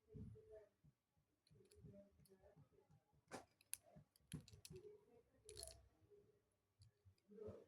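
Faint, scattered clicks of small plastic Lego pieces being handled and pressed together.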